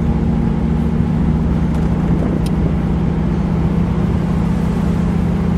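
The 1960 Chevrolet Impala's 348 cubic-inch V8 running steadily at cruising speed with a low rumble, heard from inside the car along with road noise.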